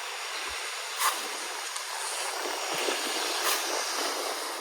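Steady hissing wash of ocean surf, with two short clicks about a second in and again past three seconds.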